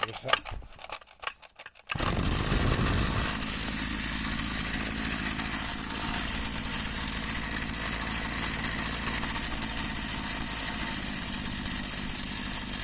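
Dolmar MS 4010 brushcutter's two-stroke engine catching on the pull starter about two seconds in, then running steadily at idle. It is running on freshly replaced piston rings and carburettor diaphragms, with its compression restored.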